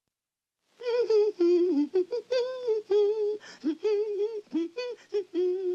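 A cartoon character's voice humming a tune without words, a string of short sung notes that starts about a second in after silence.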